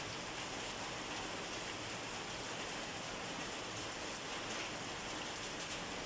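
Steady rain falling: an even hiss with faint scattered patter of drops.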